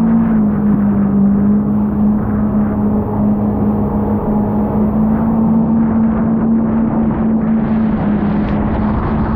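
Jet ski engine running steadily at speed, a constant drone over a rushing noise.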